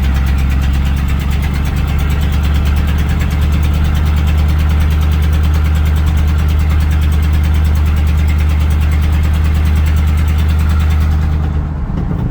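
1984 Chevrolet C10 pickup's engine running steadily with a loud low drone; near the end the drone drops away and the engine note turns rougher and uneven.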